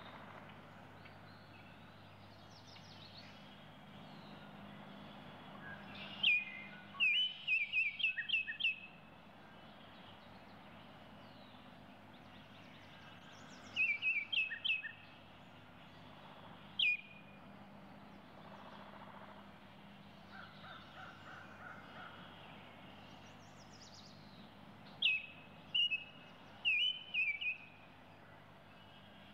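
A small bird chirping in several short bursts of quick, high, downward-sliding notes, with quieter stretches in between.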